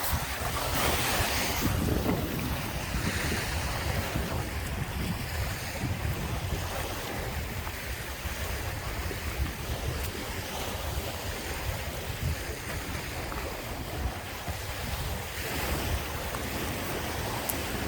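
Lake Michigan waves washing onto the beach, with wind rumbling on the microphone. The wash swells about a second in and again near the end.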